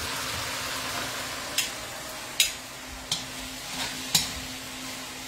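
Marinated chicken pieces sizzling in a hot wok with a steady hiss, while a spatula is stirred through them, striking the wok about four times.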